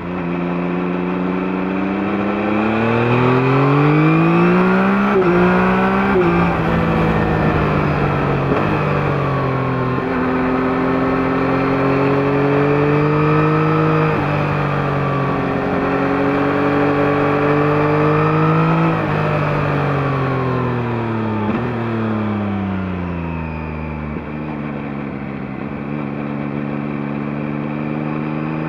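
2021 Yamaha MT-09's 890 cc CP3 inline-three running through the stock exhaust, accelerating hard. Its pitch climbs and dips briefly at each upshift, about five, fourteen and nineteen seconds in. The revs then fall away as the throttle is rolled off, hold low for a few seconds, and start to climb again at the end.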